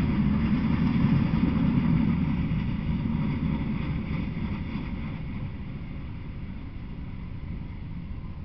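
Freight train moving away after its last car has passed, its low rumble on the rails fading steadily.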